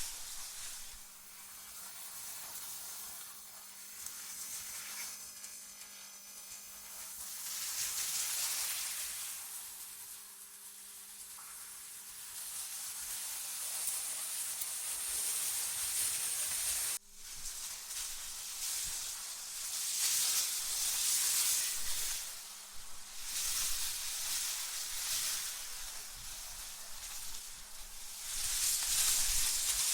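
Synthetic wind: a high, airy hiss that swells and fades in gusts every few seconds, over a faint steady low hum. The sound cuts out for an instant about halfway through.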